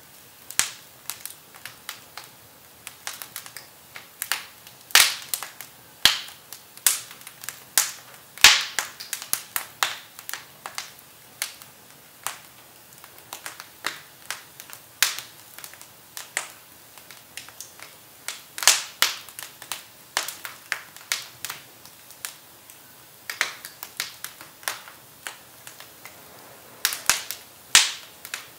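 Firewood burning in a fireplace, crackling with irregular sharp pops: many small snaps and a few much louder cracks.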